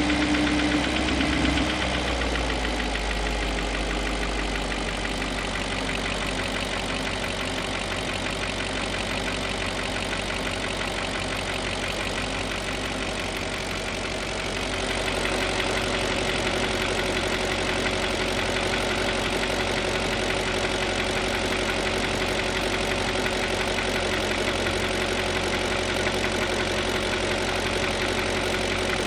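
BMW M62 V8 engine, its revs falling about two seconds in and then idling steadily with a knock in it that the owner cannot place.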